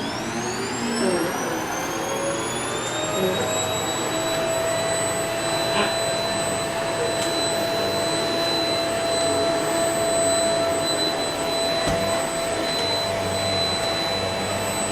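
Vacuum cleaner running: its motor whine rises as it spins up over the first few seconds, then holds a steady high whine over a constant rushing hiss.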